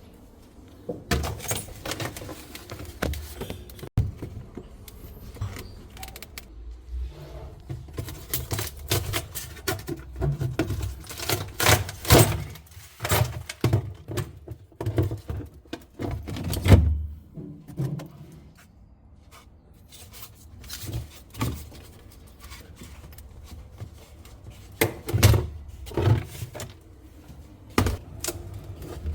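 Irregular knocks, thuds and clatter from working at a freezer tray that is jammed in place by built-up ice, with a few louder bangs along the way.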